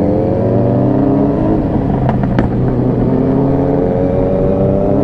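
Motorcycle engine running under way, its pitch easing down slowly over the first few seconds and then holding steady, with a couple of short clicks about two and a half seconds in.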